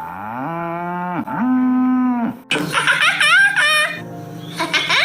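Cattle mooing: two long, steady calls one after the other. From about halfway through comes a quick run of higher, wavering calls from another animal, ending in a falling call.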